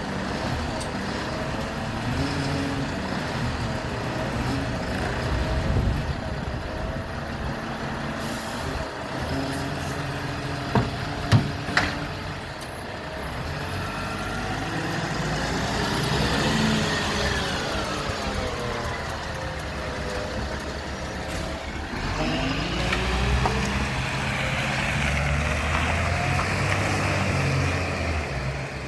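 Garbage truck's diesel engine running, its pitch rising and falling several times, with a few sharp knocks about eleven seconds in.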